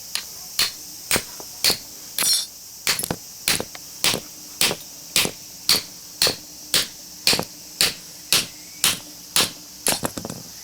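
Steady hammer blows on a cold chisel driven into a small transformer's laminated steel core to split it, about two strikes a second, each a sharp metallic knock with a short ring.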